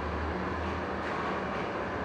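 Concrete pump truck's engine running steadily as the truck drives off.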